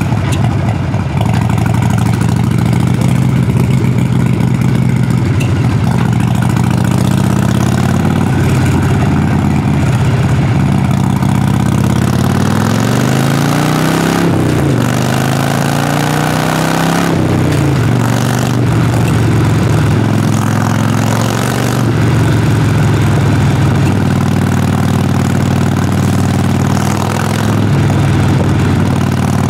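Harley-Davidson Sportster Forty-Eight's air-cooled 1200 cc V-twin, heard at the exhaust, running at steady low revs. About halfway through it revs up and falls back twice in a row, then settles back to a steady beat.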